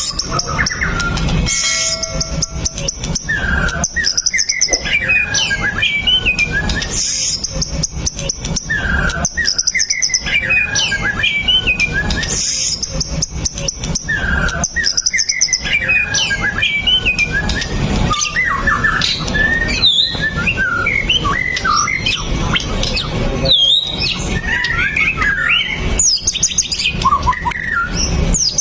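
White-rumped shama (murai batu) singing continuously: varied whistled phrases alternate with fast high trills, the song repeating in bursts every few seconds over a steady low background rumble.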